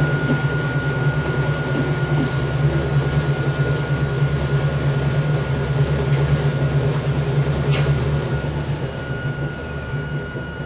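Onboard running sound of Hakone Tozan Railway Moha 1 electric car No. 106, with nose-suspended SE121-A traction motors on Nippon Sharyo NA7 bogies: a steady low rumble with a thin constant whine. There is a single sharp click about eight seconds in, and the sound then grows steadily quieter toward the end.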